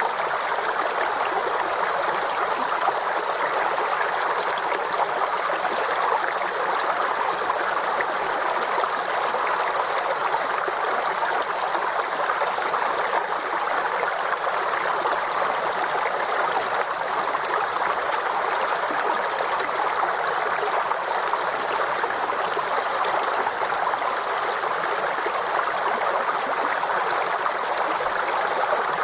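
Forest stream flowing and babbling in a steady, even rush of water.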